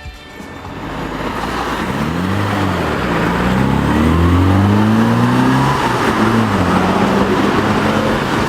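MINI Cooper engine heard through an aftermarket stainless steel muffler kit, building up and revving, its pitch rising and falling several times.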